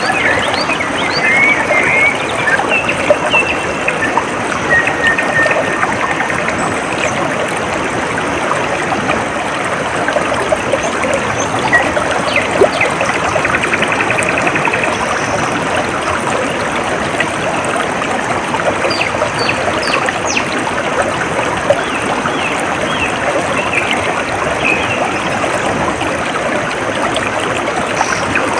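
Shallow stream trickling and babbling steadily, with a few faint bird chirps, mostly in the first few seconds.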